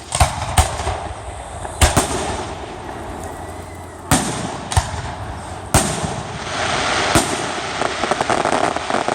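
Aerial fireworks bursting: about eight sharp booms at uneven intervals, some in quick pairs. A dense rush of noise builds between them in the second half.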